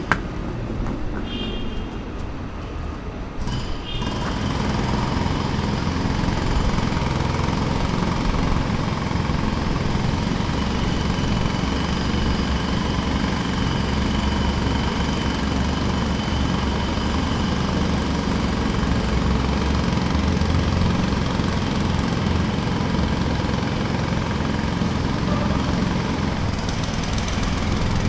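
Jackhammer running steadily, a dense mechanical racket heavy in the low end, which gets louder and fuller about four seconds in after a quieter stretch.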